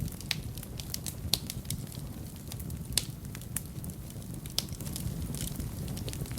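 Wood fire burning in a fireplace: a steady low roar of flames with irregular sharp crackles and pops, a few louder snaps among them.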